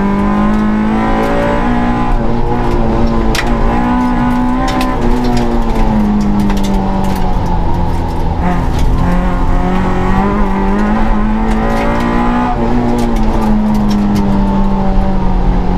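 Suzuki Swift rally car engine at speed, heard from inside the cabin, its note climbing and dropping with the gear changes. Sharp knocks from the car come through now and then.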